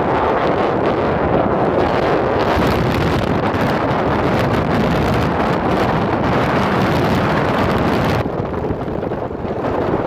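Heavy wind buffeting the microphone as a loud, rough rumble. About eight seconds in, it eases a little and loses its hiss.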